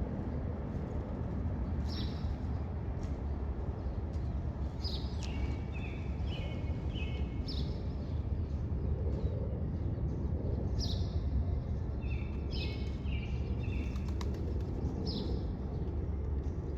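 A bird calling repeatedly, about every two seconds, in short high phrases of quick notes that step down in pitch, over a steady low rumble of outdoor noise.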